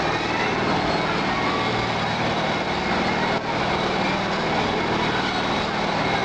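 Steady, loud rushing and rumbling noise of an airplane ride in motion, with a brief dip about three and a half seconds in.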